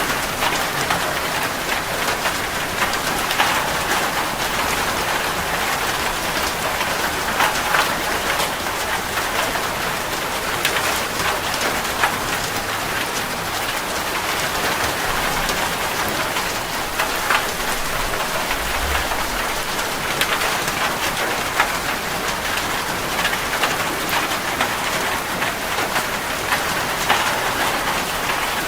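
Steady rain falling on a surface, a continuous patter with scattered louder drops.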